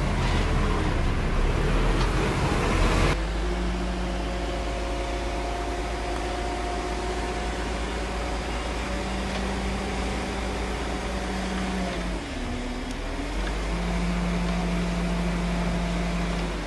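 Diesel engine of heavy earthmoving machinery running with a steady drone, its pitch sagging briefly under load about three-quarters of the way through and then recovering. Louder rushing noise lies over it at the start and stops abruptly about three seconds in.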